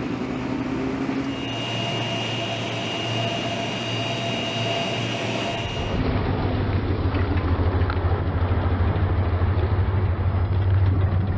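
Motor vehicle or aircraft engines running steadily, in two clips: first an even engine noise with a high steady whine over it, then, after a cut about six seconds in, a louder, deeper engine drone.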